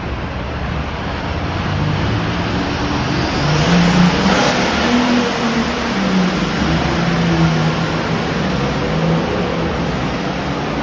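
A pulling tractor's engine running hard, its pitch wavering, with a rising whine about four seconds in as it reaches its loudest.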